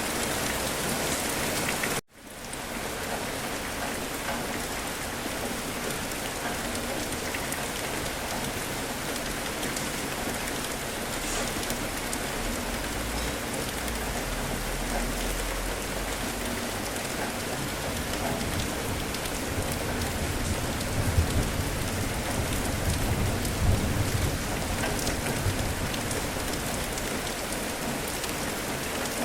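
Steady rain falling, with low thunder rumbles past the middle. The sound cuts out briefly about two seconds in and fades back.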